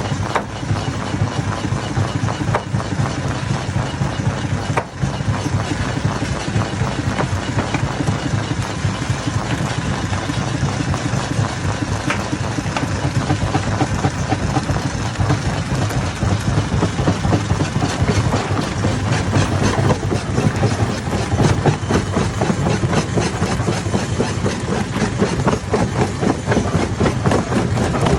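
Hammer stone crusher running steadily: a continuous engine-like drone under dense, rapid rattling and clatter.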